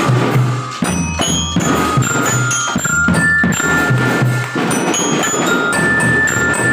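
Kindergarten drum band playing a tune: marching glockenspiel (bell lyra) carries the melody in ringing high notes over a steady beat of drums.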